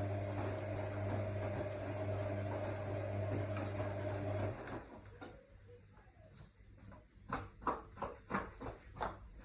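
AEG Lavamat L62850L front-loading washing machine mid-cycle: a steady motor hum that stops about four and a half seconds in, then, after a short lull, a string of irregular knocks and splashes near the end.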